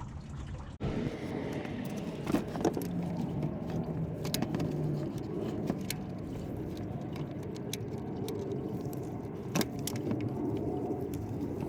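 Sharp clicks and knocks of plastic trim clips and hand tools being worked, a few times, over a steady low rumble of background noise.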